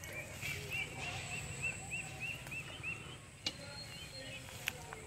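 A bird calling a quick series of short, repeated high notes, about three a second, which thins out midway and picks up again near the end. A few sharp clicks and a thin steady high whine sound alongside.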